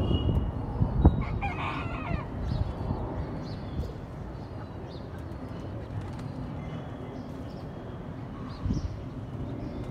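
A bird gives one drawn-out call about a second and a half in, over a steady low rumble of city background noise. A sharp knock comes just before the call.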